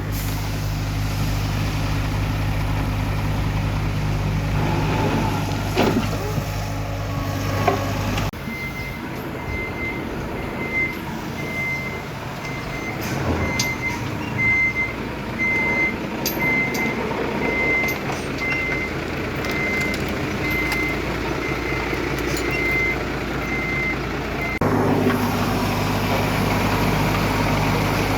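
A heavy diesel earthmoving machine's engine running steadily. It gives way abruptly to a truck's reversing alarm beeping at an even pace over a lower engine rumble with scattered clicks, then the steady engine drone returns.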